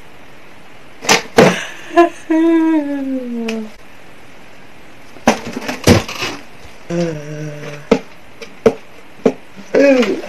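Sharp knocks and taps, mixed with short wordless vocal sounds: one long falling glide a couple of seconds in, a short held low note later, and a rising sound near the end.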